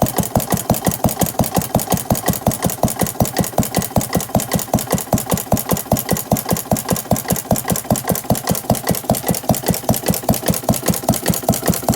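1910 Paige cream separator engine, a small stationary engine with an atmospheric intake valve, running steadily at its governed speed. It gives an even, rapid beat of firing strokes and valve-gear clatter that holds the same pace throughout.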